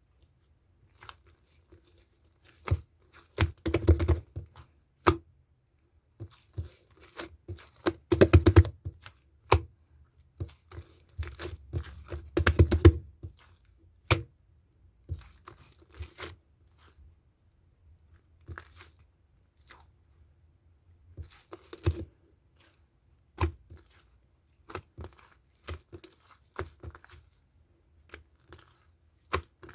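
Slime being worked by hand, giving irregular crackling and popping clicks with a few louder squelching bursts in the first half.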